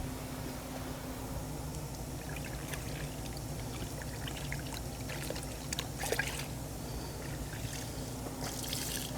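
Wash sponge loaded with rinseless wash solution being dipped and squeezed out in a bucket: water trickling and dripping in small splashes, the strongest a little past the middle, over a steady low hum.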